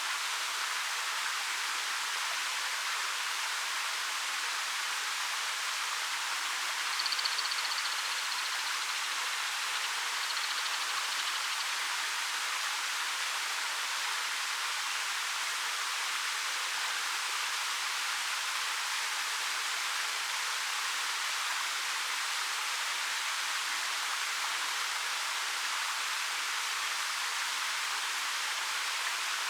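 Steady rushing of a 13 m waterfall pouring over rock, an even hiss of falling water. A short high chirp comes about seven seconds in, and a fainter one about ten seconds in.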